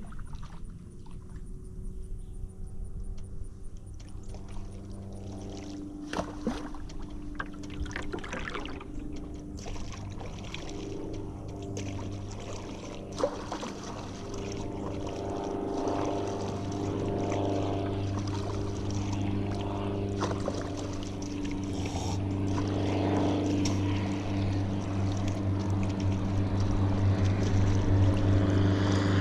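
A motorboat's engine running steadily and growing louder as it approaches, with a few short knocks over it.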